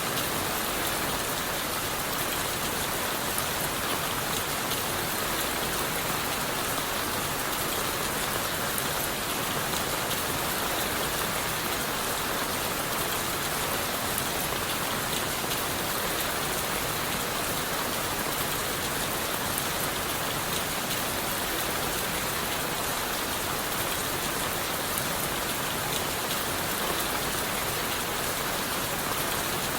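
Steady rain falling on leaves, wood and the forest floor, a continuous even hiss with fine pattering drops and no letting up.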